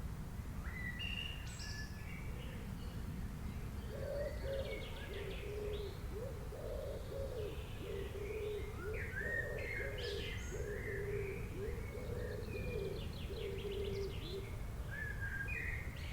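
Birds chirping and trilling, with a run of repeated low cooing notes from about four seconds in until near the end, over a steady low background hiss.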